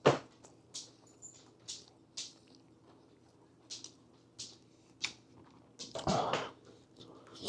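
A person chewing a mouthful of food, with scattered wet mouth clicks and smacks and a louder burst about six seconds in.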